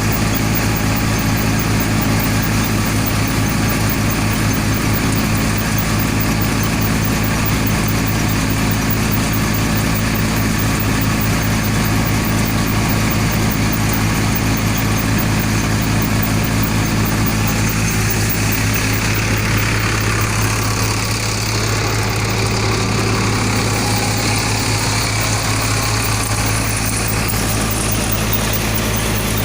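Sonalika tractor's diesel engine running steadily at a constant speed, a low even hum with a broad mechanical hiss over it.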